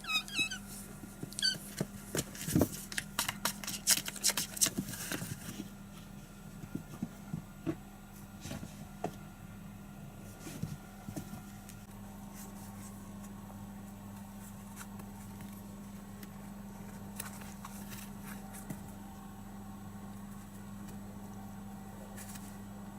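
Kittens playing: a short high mew at the start and again a second and a half in, then a quick flurry of taps and scuffles for a few seconds, thinning to scattered taps, over a steady low hum.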